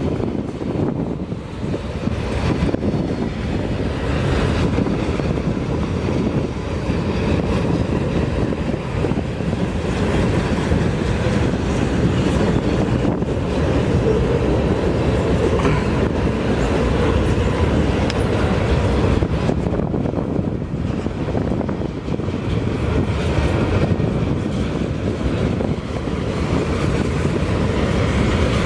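Train cars rolling past in a long, steady rumble, with wheels clacking over the rail joints.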